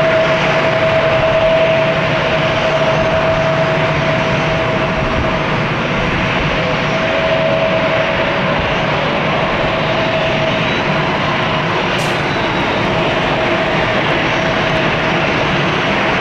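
Airbus A330-300 airliner's twin jet engines at takeoff power, a steady loud rumble with a constant whine running through it.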